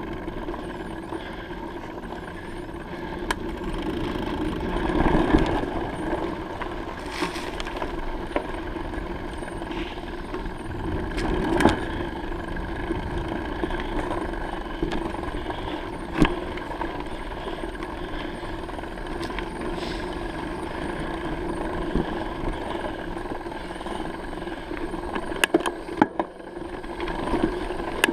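Bicycle being ridden: steady road and tyre noise with rushing air, broken by a scattering of sharp clicks and rattles.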